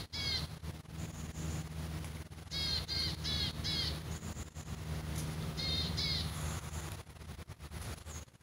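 A bird calling: short harsh calls in groups, two at the start, four about two and a half to four seconds in, and two more about six seconds in, each dipping slightly in pitch. A steady low hum runs underneath.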